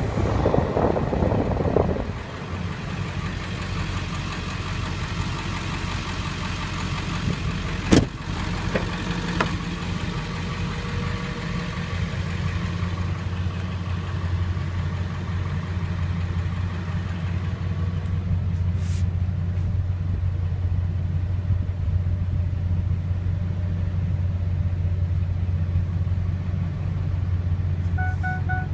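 Ford 7.3 Powerstroke V8 turbo diesel idling steadily, with a single sharp knock about eight seconds in.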